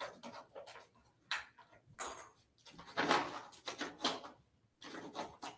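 Papers and items being handled on a table: an irregular run of short rustles and light knocks.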